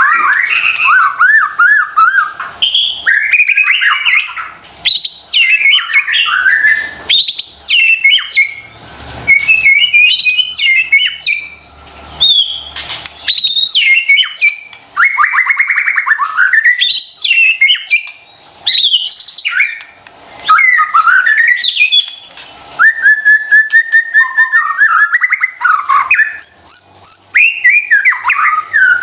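White-rumped shama (murai batu) in full song: a long run of loud, varied whistled phrases with sliding notes and fast trills, one phrase after another with only short pauses.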